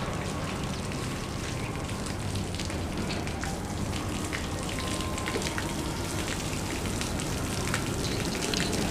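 Rain falling, a steady patter with many small scattered drip ticks.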